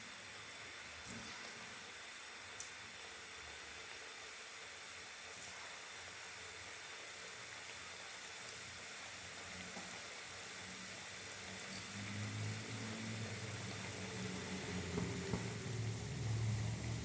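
Chhana dumplings (langcha) sizzling steadily in moderately hot white oil, a continuous frying hiss. A low hum joins in about twelve seconds in.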